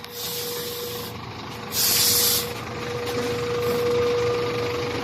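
Heavy truck's air brakes hissing twice: a shorter hiss at the start and a louder one about two seconds in, over a steady whine from the truck.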